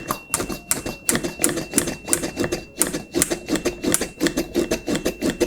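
Hand vacuum pump of a cupping set being worked in quick repeated strokes, clicking several times a second as it draws the air out of the cup. A faint steady high-pitched electronic buzzer tone continues underneath.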